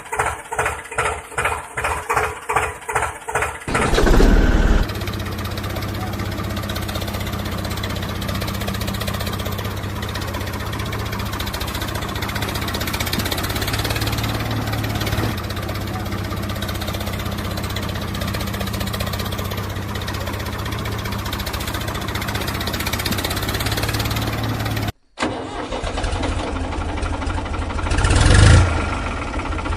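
Engine turning over in slow, even pulses, catching about four seconds in and then running steadily. A brief rise in engine speed comes near the end.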